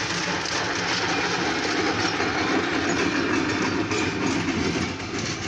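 Light-power train of diesel locomotives running without cars: a steady mix of locomotive engine and wheels on rail, heard from inside a car, easing slightly near the end.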